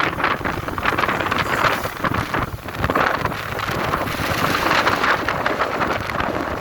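Wind buffeting the microphone: a loud rushing, fluttering noise that rises and falls in uneven gusts.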